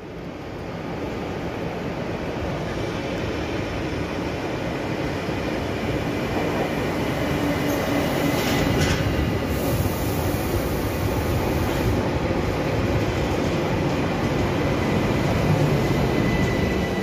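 ÖBB class 4024 Talent electric multiple unit pulling into the platform, its running noise swelling over the first couple of seconds and then holding steady. A short high hiss comes a little past halfway.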